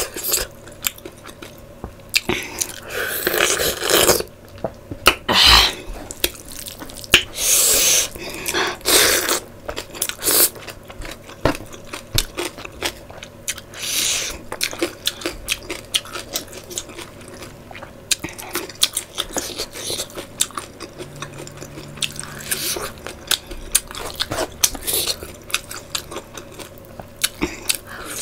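A person chewing and biting pieces of curried meat eaten by hand, with many short mouth clicks and smacks.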